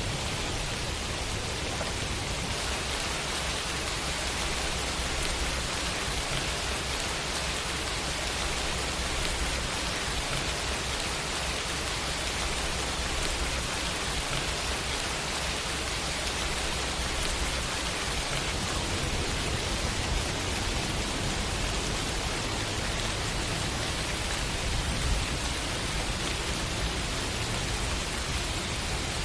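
Steady rain falling, an even hiss of drops pattering on surfaces, with a low rumble underneath.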